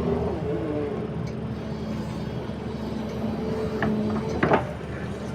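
Excavator's diesel engine running steadily under working load, its pitch shifting slightly, with a sharp metallic clank about four and a half seconds in.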